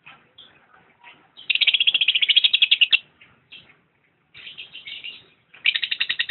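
Lovebird chattering: scattered short chirps, then three runs of fast, rapidly repeated shrill calls, the loudest about a second and a half in and lasting about a second and a half.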